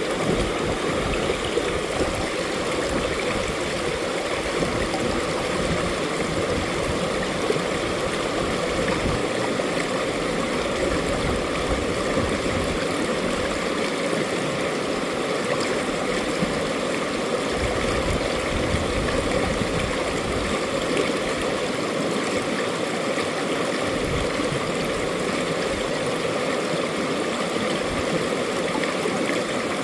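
Mountain valley stream flowing over rocks, a steady rushing and gurgling of water.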